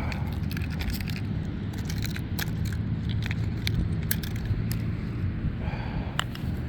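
Steady low engine-like hum of nearby road traffic, with many light clicks and jingles of carried gear scattered through it.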